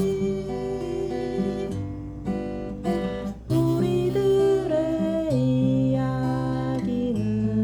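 Seagull acoustic guitar playing the chords of a slow folk song, changing chord about every two seconds. It gets louder from a strong stroke about halfway through.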